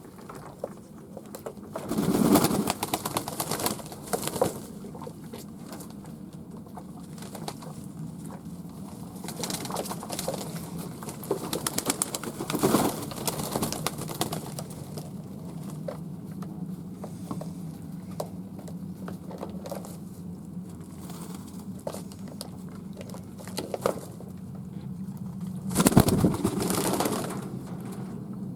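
Fantail pigeons cooing, a low cooing that goes on throughout. Three louder, brief rustling bursts come about two seconds in, around the middle and near the end.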